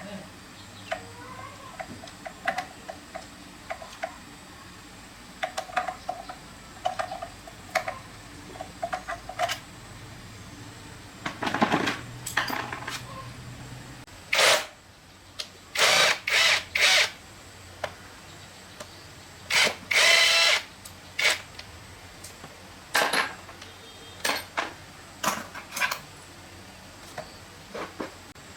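Power-tool work at a workbench: a run of short bursts and clicks, then several louder bursts of about half a second to a second each.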